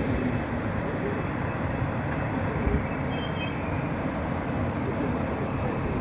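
A train going by, a steady low rumble.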